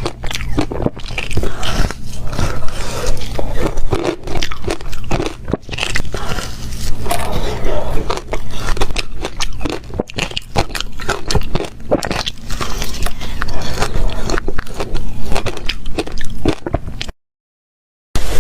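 Close-up crunching and chewing of ice: a rapid, irregular run of sharp cracking bites and grinding chews. It cuts to dead silence for about a second near the end.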